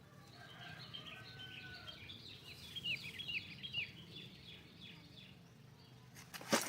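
Faint bird chirping: a few thin whistled notes, then a quick run of short down-slurred chirps about two and a half seconds in, over a low background hum.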